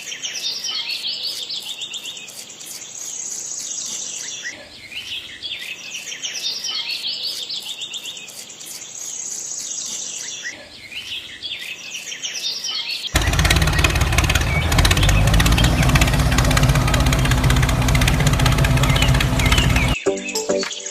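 Bird chirps and song in a repeating loop for about 13 seconds, then a sudden loud, steady noise with a strong low hum cuts in and runs for about seven seconds before changing abruptly near the end.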